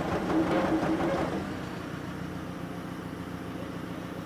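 Engine of the lifting machine running steadily at idle, holding the load. Louder irregular noise with it for about the first second and a half, then only the steady engine hum.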